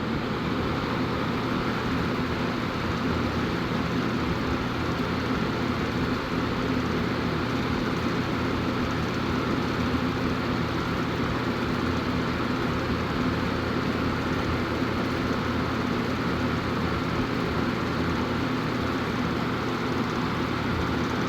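Vintage Galaxy 20-inch box fan with a 2.2-amp plastic-housed motor running on high: a steady rush of air over a low motor hum, coming up a little in the first second or two and then holding even.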